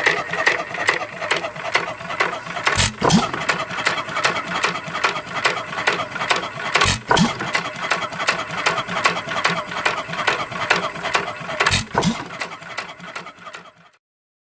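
1917 Chapman 2 hp Style A hit-and-miss gasoline engine running: a steady rapid clatter with a heavier beat about every four seconds. The sound fades out near the end.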